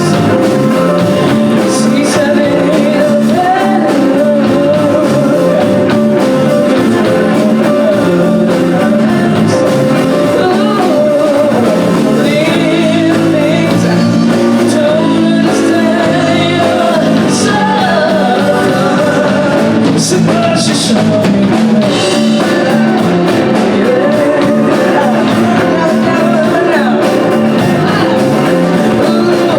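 Live band playing a rock-soul song, with guitar, drums and a singing voice over it.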